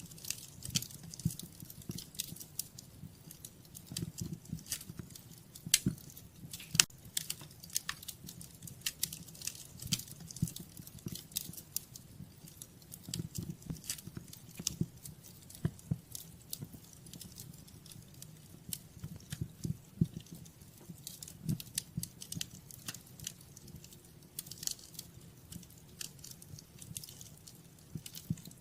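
Wood fire burning in a fireplace: irregular crackling and sharp popping over a low steady rumble of flames, with a couple of louder pops about six and seven seconds in.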